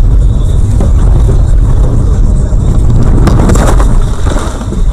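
Loud, steady car road rumble. About three seconds in comes a cluster of knocks and clatter, and the rumble eases off about a second later.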